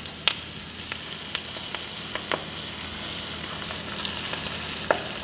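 Hot ghee sizzling in a small tempering pan as garlic, dried red chillies and freshly added curry leaves fry, with scattered sharp pops through a steady hiss. A spoon is stirred through the pan.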